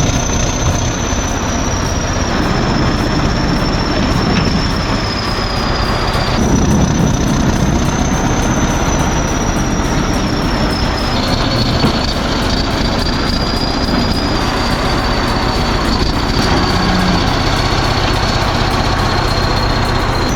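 Bulldozer at work breaking river ice: the machine runs steadily with a continuous high-pitched squeal over it. The sound jumps abruptly about 2, 6 and 11 seconds in, as between separate takes.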